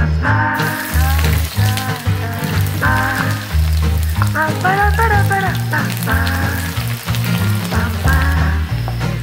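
Crushed garlic frying in hot oil in a wok: a sizzle that starts about half a second in as the garlic goes in and keeps going. Background music with a steady bass line plays throughout.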